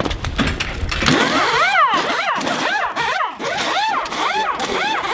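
Pneumatic impact wrenches (pit guns) working lug nuts during a timed tire change. First comes a rapid clatter of knocks and clicks, then a string of short whines that rise and fall, about two a second.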